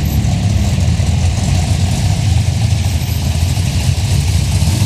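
Engines of classic cars rumbling steadily at low speed as they roll into a car meet.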